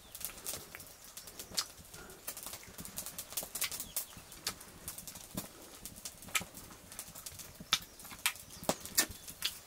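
Close-up chewing and lip-smacking of a man eating pork on the bone: irregular sharp, wet mouth clicks, a few a second.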